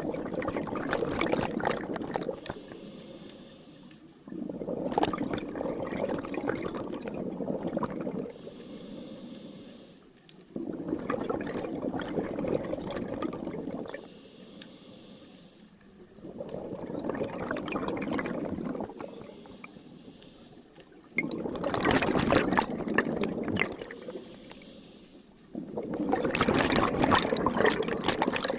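Scuba diver breathing through a regulator underwater: a bubbly rush of exhaled air about every five seconds, about six breaths in all, with a faint hiss of inhalation between them.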